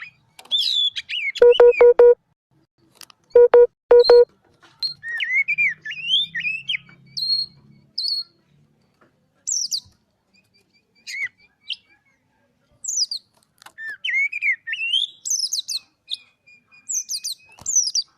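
Oriental magpie-robin (kacer) singing: varied whistled phrases, rising and falling chirps and sharp high notes, broken by short pauses. Twice near the start comes a loud set of four short, flat-pitched beeping notes.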